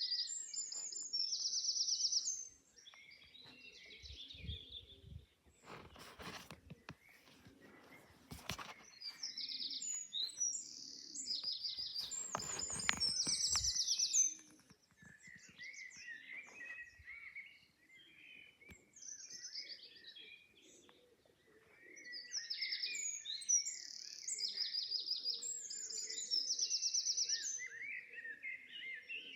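Dawn chorus of wild songbirds: several birds singing chirps and fast trills, on and off throughout. A few brief bursts of rustling noise come in between.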